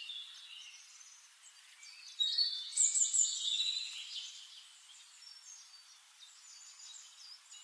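Birds chirping in the background: short, high chirps and whistles, with a louder run of them about two seconds in.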